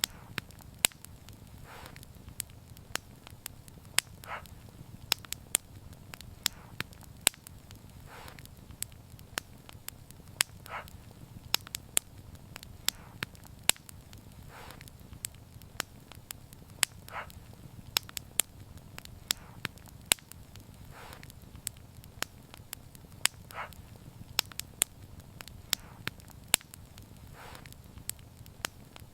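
Wood fire crackling: frequent sharp snaps and pops over a low, steady rumble of burning flames, with a softer pop about every two seconds.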